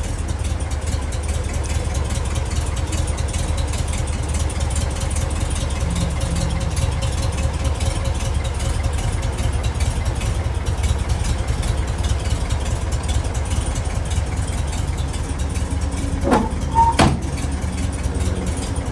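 1969 VW Bus's 1500cc air-cooled flat-four engine idling steadily. Two sharp clicks come close together near the end.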